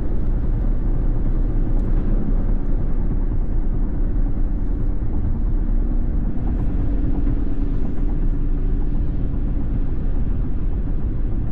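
Steady low rumble of a car driving, heard from inside the cabin: engine and road noise with no breaks.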